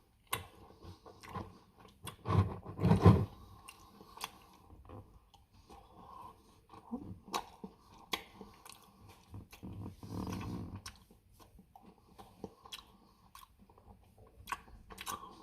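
A man chewing a mouthful of ice cream cake with Reese's peanut butter cup chunks close to the microphone, with irregular wet mouth clicks. The chewing is louder for a moment about two to three seconds in and again around ten seconds in.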